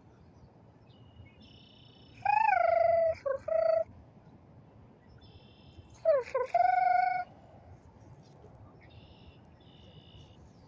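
A call-and-answer with red-winged blackbirds: faint high bird notes, two of them followed by a loud, lower, nasal call about a second and a half long, a person's imitation answering the birds.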